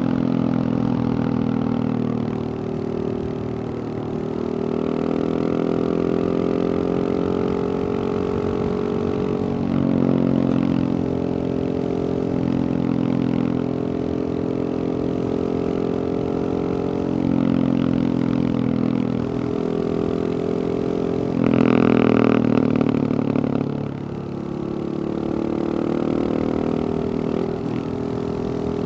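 Husqvarna 701 supermoto's single-cylinder four-stroke engine running through a Wings aftermarket exhaust, its pitch rising and falling with the throttle. A louder, sharper burst of throttle comes about 22 seconds in.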